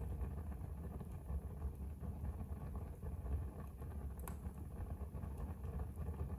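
Wood fire burning in a fireplace: a steady low rumble of flames with faint crackles and one sharper pop about two-thirds of the way through.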